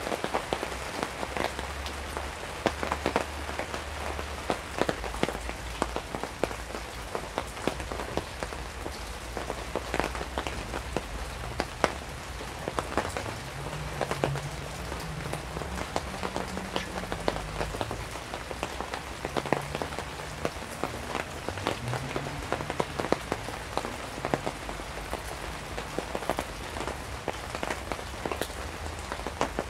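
Steady rain falling, with many sharp drop hits all through.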